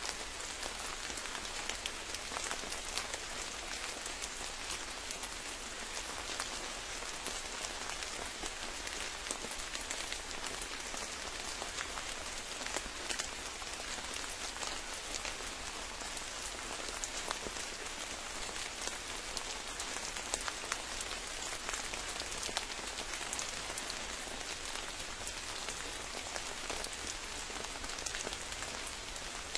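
Steady rain falling, with many small, distinct drop impacts scattered through a continuous hiss.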